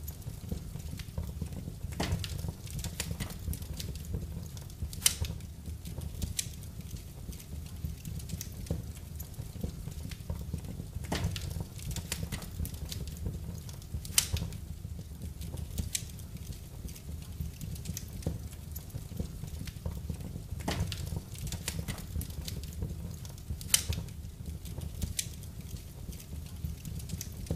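Wood fire burning in a fireplace: irregular sharp crackles and pops, a few much louder than the rest, over a steady low rumble.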